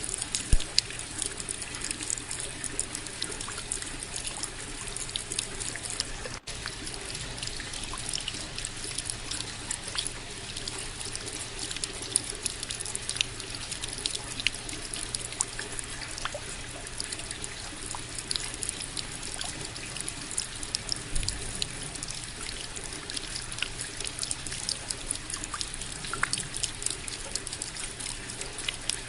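Steady rain falling, with many small drop ticks throughout and an even wash of running water beneath.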